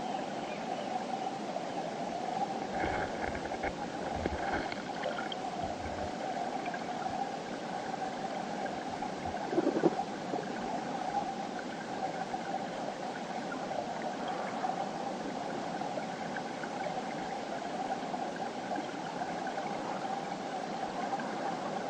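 Mountain river flowing over rocks: a steady rushing and babbling of water, with a short louder gurgle about halfway through.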